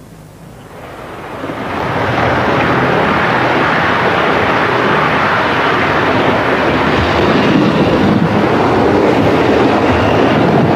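Train running on the track: a steady noise that swells up over the first two seconds and then holds loud.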